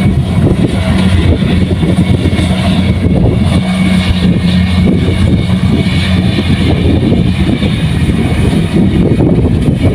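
Kubota combine harvester's diesel engine running steadily, a loud, even drone.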